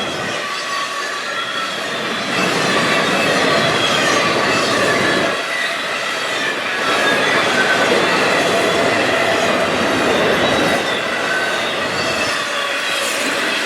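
A train rolling past, its cars running steadily over the rails, with thin wavering squeals from the wheels.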